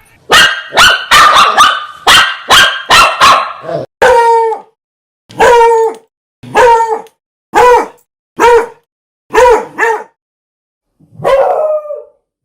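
A dog barking: a quick run of barks in the first few seconds, then single barks about once a second that each fall in pitch, and one last bark after a short pause near the end.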